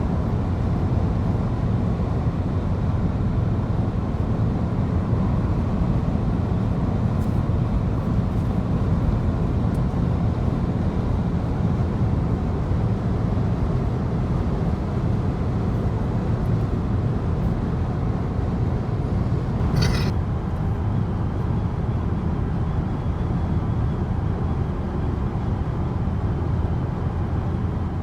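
Steady road and engine rumble of a moving car heard from inside the cabin, with a brief sharp click about two-thirds of the way through.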